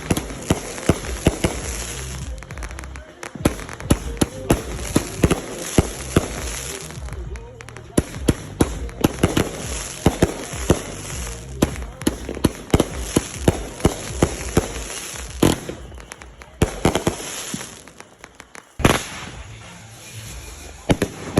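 Fireworks going off: a dense run of sharp bangs and crackling that eases briefly a couple of times.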